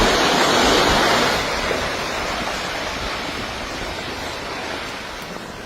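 Loud rush of water, strongest for the first second and a half, then easing off and slowly fading.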